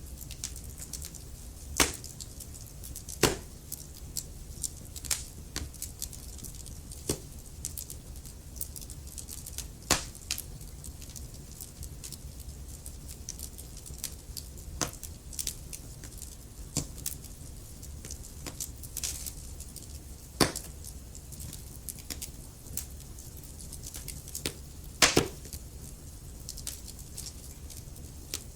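Wood fire burning in a fireplace, crackling and popping at irregular intervals over a low steady rumble, with a few louder pops scattered through.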